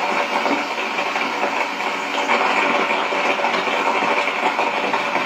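Steady rain falling, a dense even hiss that holds at one level throughout.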